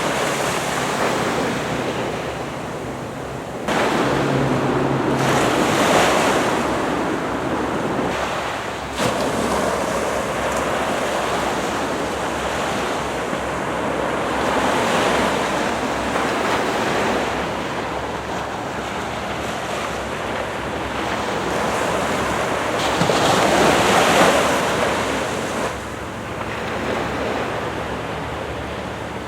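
Small ocean waves breaking and washing on the shore in a continuous rush. The sound swells louder every several seconds as each wave comes in.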